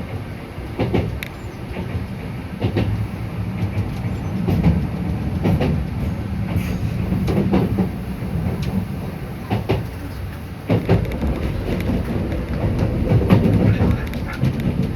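Enshu Railway electric train running, heard from inside the car: a steady low rumble of wheels on track with irregularly spaced clicks as the wheels pass over rail joints.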